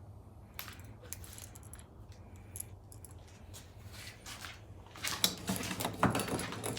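Small metal fittings clinking and jangling as they are handled: a few scattered clicks at first, then a busier, louder clatter from about five seconds in.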